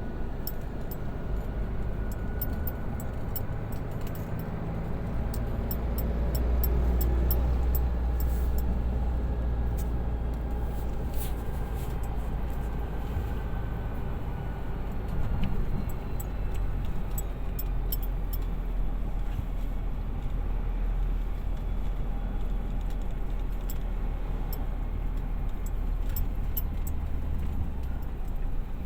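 Light rain ambience: a steady low rumble under an even hiss, with scattered sharp ticks throughout.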